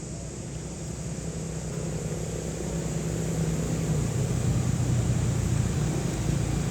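Steady low engine hum of a motor vehicle, growing gradually louder.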